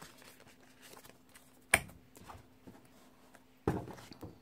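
Desk handling of a planner and paper: light rustles and taps, one sharp click about halfway through and a duller knock near the end, over a faint steady hum.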